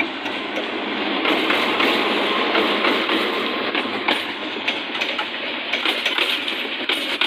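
A train passing close by: a steady rush of wheels on the rails, louder after about a second, with scattered clicks as the wheels cross rail joints.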